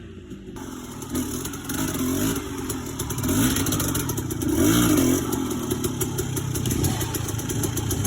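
Dirt bike engine revving up and down over and over as it is ridden, its pitch rising and falling several times and loudest around the middle.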